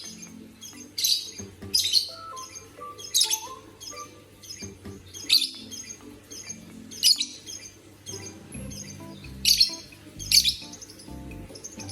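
Pet bird giving short, sharp, high-pitched chirping squawks, repeated about once a second.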